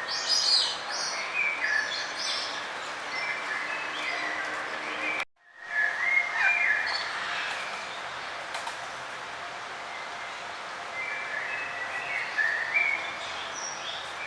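Small songbirds chirping and trilling in short, high phrases over a steady outdoor background. The sound cuts out abruptly for about half a second about five seconds in, then the chirping resumes.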